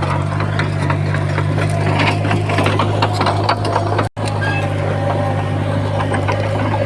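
Heavy diesel earthmoving machine running steadily under load, with many small clanks and rattles of stone and metal. The sound cuts out for an instant about four seconds in.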